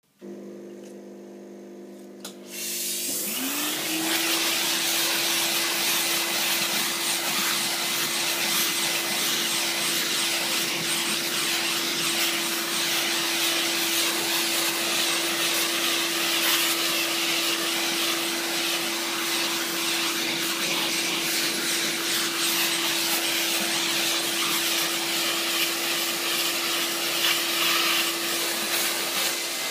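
A motor-driven car-cleaning machine starts up about three seconds in, after a quieter low hum: its whine rises quickly and settles to a steady pitch under a loud, even hiss, then runs on steadily.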